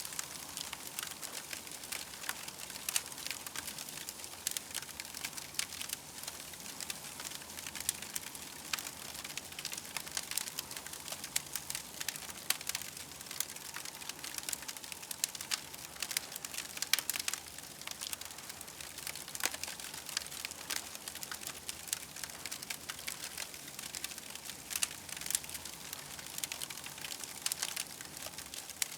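Small campfire crackling steadily, with dense, irregular sharp pops and snaps over a soft hiss.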